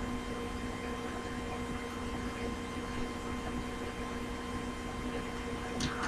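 A steady electrical hum, several constant tones over a low hiss, with a faint click just before the end.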